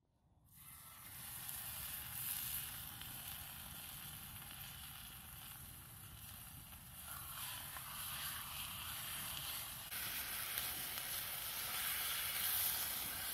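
Food sizzling as it cooks, a steady sizzle that gets a little louder about ten seconds in.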